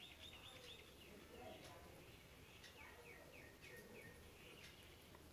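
Near silence with a bird faintly chirping in the background: a run of short, repeated high chirps at the start and another from about three seconds in.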